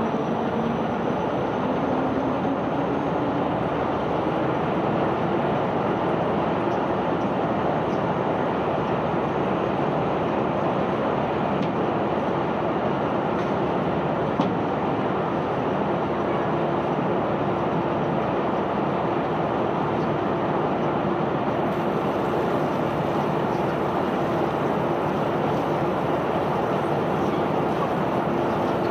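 Steady machinery noise of a self-unloading barge discharging bulk cargo: its unloading gear running without a break. A faint steady hum joins about halfway, near a single sharp tick.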